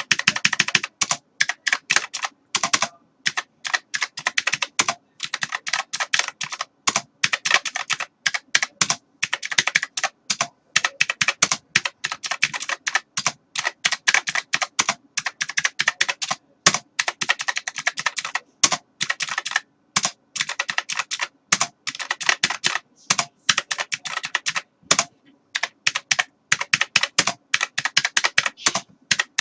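Typing on a computer keyboard: rapid, irregular clatter of key presses in quick runs, with short pauses between bursts.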